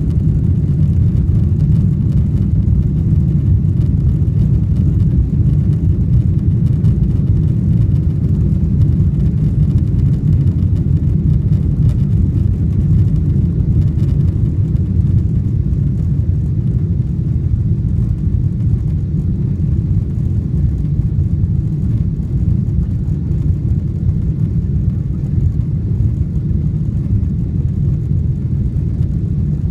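Boeing 777-300 airliner during takeoff, heard from aboard: a loud, steady low rumble of engines and airflow that does not change.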